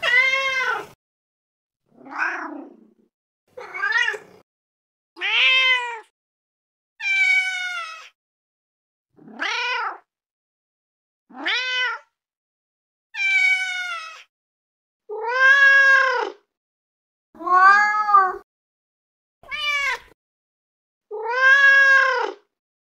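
Domestic cat meowing over and over: about a dozen separate meows, each around a second long and rising then falling in pitch, with short silent gaps between them.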